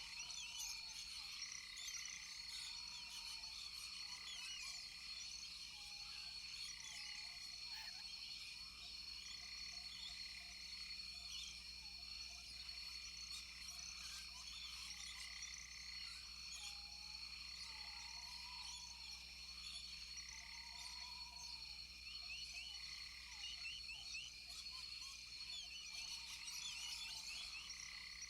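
Chorus of frogs and insects calling together: a steady high drone, many quick chirps, and a lower arched call repeating every few seconds.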